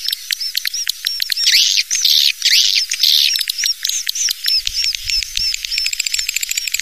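Swiftlet calls played as a swiftlet-house lure: a rapid run of short high chirps, about four to five a second, mixed with longer twittering trills.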